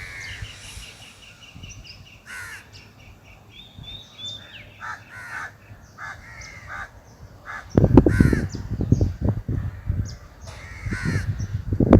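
Crows cawing repeatedly, with a quick run of high chirps in the first few seconds. From about eight seconds in, gusts of wind buffet the microphone.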